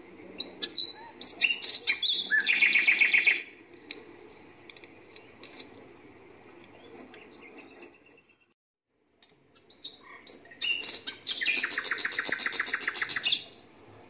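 Small songbird chirping, with two bursts of fast, high trilled notes about two seconds each, one near the start and one near the end, and scattered short chirps between; the sound drops out completely for a moment just past the middle.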